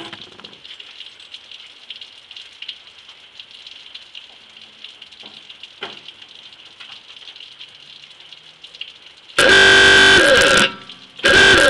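Ahooga-style novelty horn on a 1972 Ford F100 pickup sounding two loud blasts: the first about nine seconds in, lasting over a second, the second starting near the end. Before them only a faint steady hiss, with a thump at the start.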